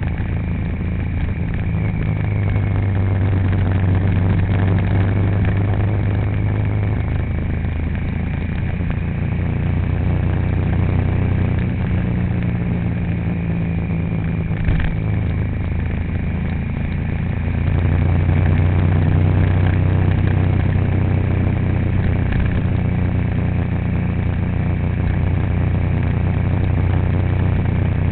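A vehicle engine running steadily with road noise while driving, as a continuous low hum that gets a little louder a little past halfway. There is one brief click about halfway through.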